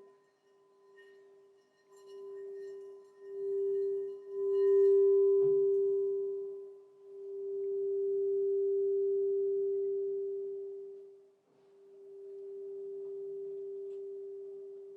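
Crystal singing bowl sounding one sustained, pure tone that swells and fades several times, with a faint tap about five and a half seconds in.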